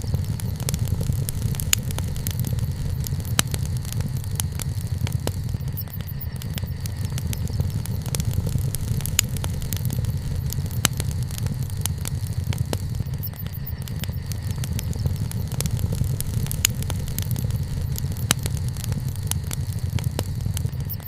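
Wood fire burning: a steady low rumble of flames with scattered sharp crackles and pops from the burning wood.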